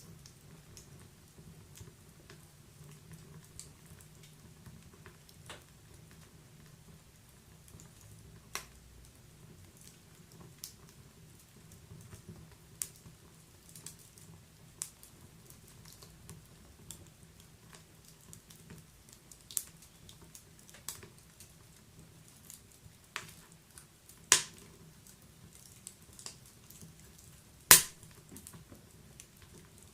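Wood fire in a fireplace crackling: scattered irregular sharp pops over a faint low hum, with two much louder pops near the end.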